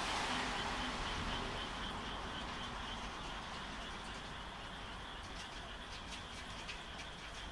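Frogs calling in a rapid, pulsing chorus over a steady hiss of rain, with short high chirps from about five seconds in. A louder rumble fades away over the first couple of seconds.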